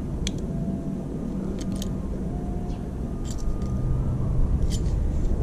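Steady low mechanical hum with scattered light clicks and taps of a metal part being handled and bent by hand.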